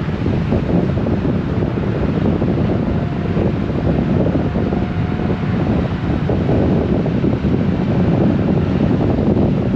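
Steady wind buffeting the microphone of a Honda Gold Wing motorcycle under way: a dense, unbroken low rumble of wind and road noise.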